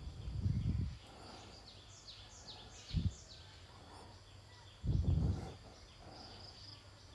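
A bird calling a quick run of short high notes, each sliding downward, about four a second. Low dull thumps break in three times, the loudest about five seconds in.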